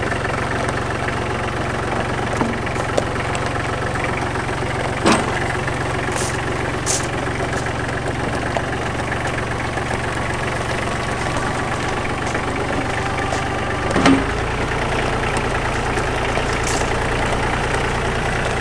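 Car engine idling steadily, with a sharp knock about 5 s in and another about 14 s in, after which the low engine note changes.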